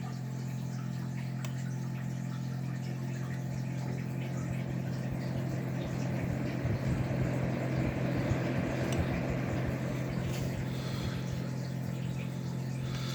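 A Pelonis PSH08F1ABB fan-forced space heater running, with a steady fan-motor hum and the rush of air from its fan. The air rush swells a little midway.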